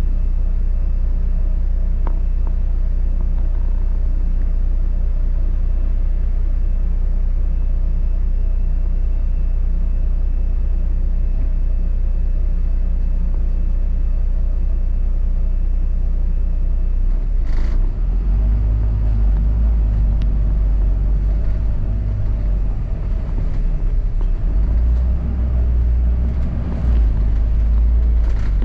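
Double-decker bus in motion, heard from on board: a steady low rumble of engine and road. A single short knock comes about seventeen seconds in, after which the low engine note grows louder and varies.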